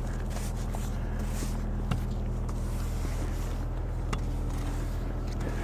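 Acura car's engine idling steadily, left running to warm up, with a couple of short knocks about two and four seconds in.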